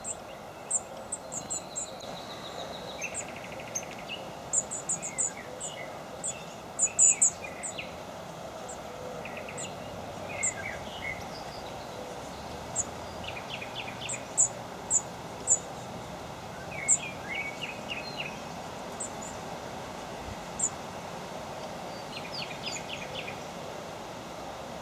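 Small birds chirping: scattered short, sharp high call notes and brief clusters of twittering calls, over a steady background hiss.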